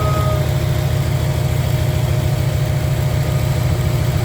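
1994 Camaro Z28's LT1 V8 idling steadily and smoothly, with a thin steady whine over it; the new serpentine belt no longer squeaks.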